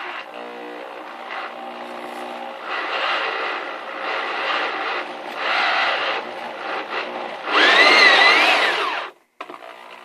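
Electric drill driving a 1 1/2 inch hole saw through a thin aluminum plate, run in several bursts whose pitch rises and falls as the speed changes. The loudest burst comes near the end, then the drill stops suddenly and starts again briefly.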